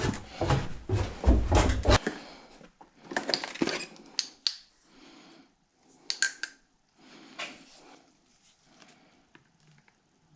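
Piston rings and their packaging being handled on a workbench: light metal clinks and rustling, busy with low knocks for the first couple of seconds, then scattered clicks that thin out.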